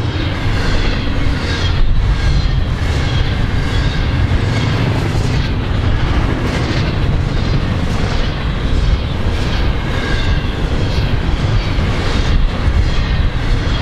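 Double-stack intermodal container train passing close by: a steady loud rumble of freight cars rolling on the rails, with a regular clatter as each set of wheels goes by.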